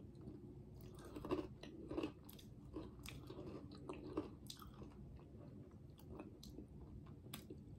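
Faint chewing and small wet mouth clicks as a soft, mousse-like chocolate dessert is eaten, with two slightly louder smacks at about one and a half and two seconds in.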